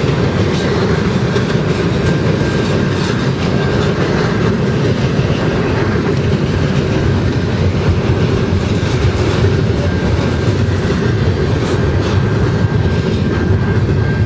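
Double-stack intermodal container cars of a freight train rolling past at speed: a loud, steady rumble of steel wheels on the rails with irregular clicks, and a thin steady high tone running under it.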